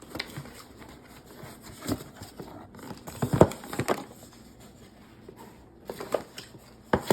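Handling noises: irregular knocks, taps and light rustling, with the loudest cluster of knocks about three and a half seconds in and more near the end.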